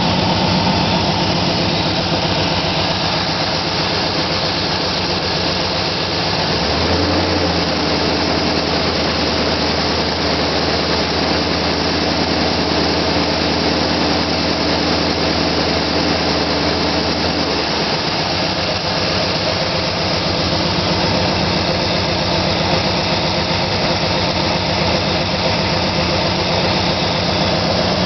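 Chevy 350 small-block V8 running on its first start after an engine swap. It runs steadily, is brought up to a higher steady speed at the carburetor throttle from about six and a half seconds in, and drops back to a lower speed about eighteen seconds in.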